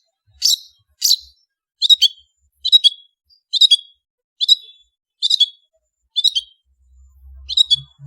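Long-tailed shrike (cendet) in full song: a series of short, sharp, high-pitched notes repeated about once a second. A faint low hum comes in near the end.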